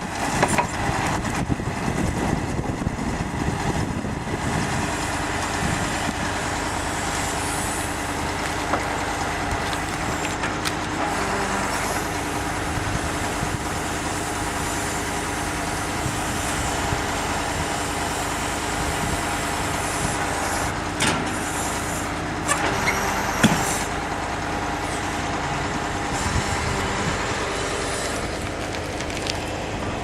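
KAMAZ timber truck's diesel engine running steadily while the truck is loaded with logs. A few sharp knocks come about two-thirds of the way through.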